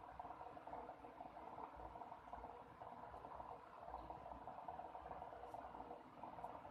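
Faint, steady hum and hiss of room noise, with a few faint ticks.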